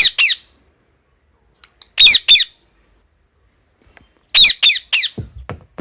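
Indian ringneck parakeet giving short, loud, harsh screeching calls in quick groups: two at the start, two about two seconds in, and three about four and a half seconds in, each call dropping slightly in pitch.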